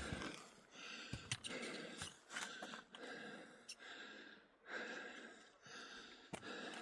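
A hiker's breathing while walking on a mountain trail, with the short knocks of footsteps.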